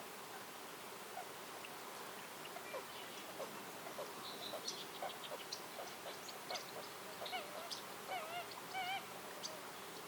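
Wild birds calling: a busy run of short chirps and call notes, then several wavering, nasal-sounding notes near the end, over a steady background hiss.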